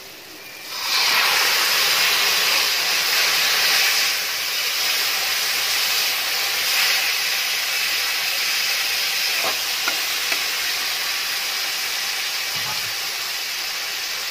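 Marinated chicken pieces going into the hot oil and masala in a kadai, setting off a loud sizzle about a second in that keeps going as they are stirred. A metal spatula scrapes and clicks against the pan a few times near the middle.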